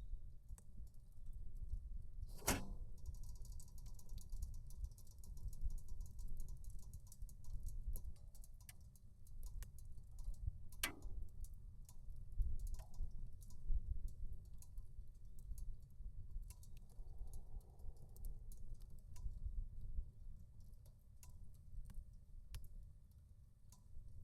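Wood fire crackling in a portable titanium fireplace: frequent small irregular ticks and pops, with two louder cracks, one about two and a half seconds in and one near eleven seconds, over a steady low rumble.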